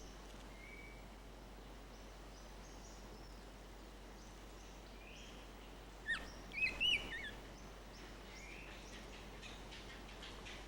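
Seychelles black parrot giving a short series of sharp, swooping whistled calls about six seconds in, with a few fainter whistles earlier, over a faint steady hiss.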